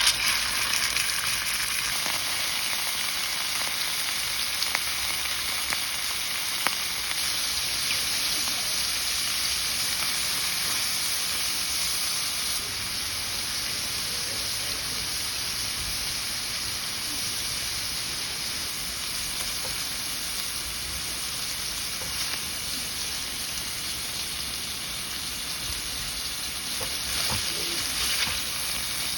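Food frying in hot oil in a pan, a steady sizzle that starts suddenly as it goes in, with a few light clicks along the way.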